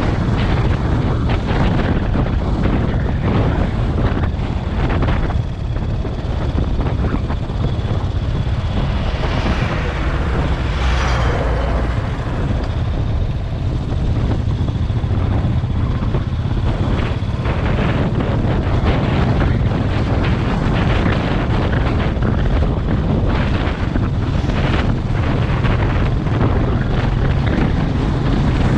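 Motorcycle engine running under way, with heavy wind buffeting on the microphone. A brief rising and falling whine about ten seconds in.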